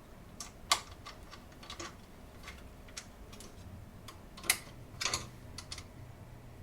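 Scattered light metallic clicks and taps from an Allen key and screws being worked on a 3D printer's frame, the loudest about a second in and again past the middle.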